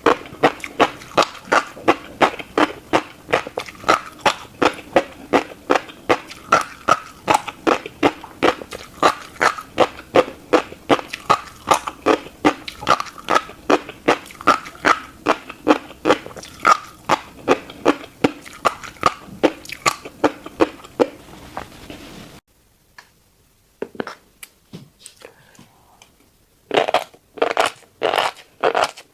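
Close-miked chewing of a mouthful of tiny black seeds, a fast, even rhythm of about three chews a second. The chewing stops suddenly about three-quarters of the way through, a few faint clicks follow in near silence, and the chewing starts again near the end.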